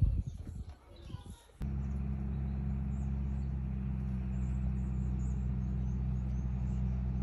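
Irregular low rumble, then, about a second and a half in, a steady low engine hum that starts suddenly and runs on evenly, with faint bird chirps above it.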